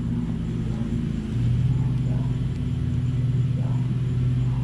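Agitated honeybees buzzing around an open hive in a steady, low, wavering drone; the colony is upset at being disturbed.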